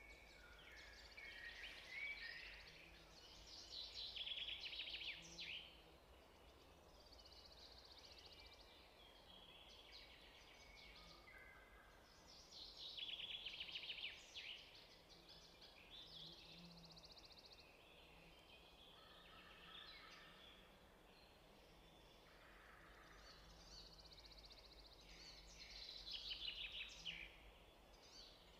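Faint birdsong: short chirps and fast trills coming every few seconds, loudest a few seconds in, about halfway and near the end, over a low steady hum.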